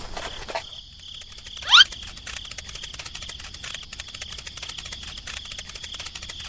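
Crickets chirping in a steady, high, rapid trill, with one short loud rising whistle near two seconds in.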